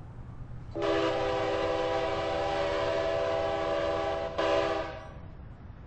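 Freight locomotive air horn: one long chord-toned blast of about three and a half seconds, then a short blast, over the low rumble of the train.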